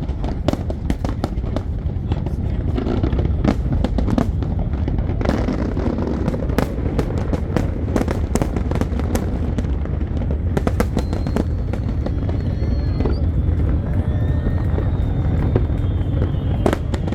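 Fireworks finale barrage: rapid, overlapping bangs and crackles over a continuous low rumble of aerial shells bursting. Thin high whistles wind through the last several seconds.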